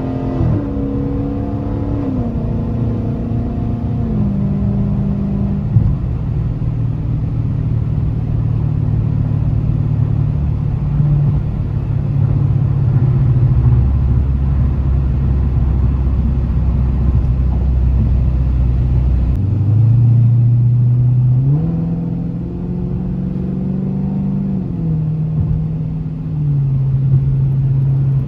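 Dodge Challenger Scat Pack's 392 (6.4-litre) HEMI V8 running while driving, its pitch dropping in steps several times early on as it shifts, then holding steady. About twenty seconds in the revs climb, then drop again in steps near the end.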